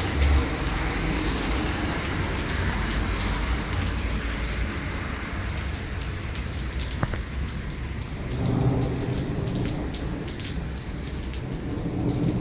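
Heavy rain pouring steadily onto wet asphalt pavement. A low rumble swells just after the start and again about two-thirds of the way through.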